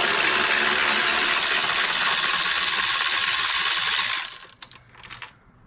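Socket ratchet clicking rapidly as it works the serpentine belt tensioner's adjuster bolt, then stopping about four seconds in.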